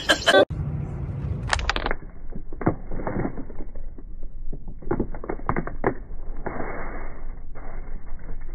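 Crinkling of a foil snack bag being handled: irregular crackles and rustles, with a longer stretch of rustling about seven seconds in.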